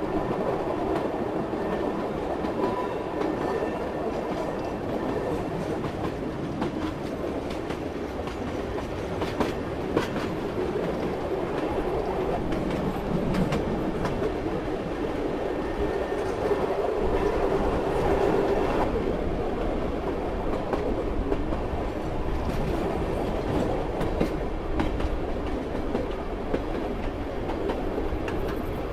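Train running along the rails: a steady rumble with the wheels clicking over rail joints now and then.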